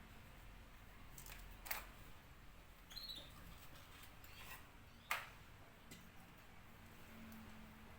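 Near silence: faint room tone with a few soft clicks, the strongest a little after five seconds in, and a brief faint high squeak about three seconds in.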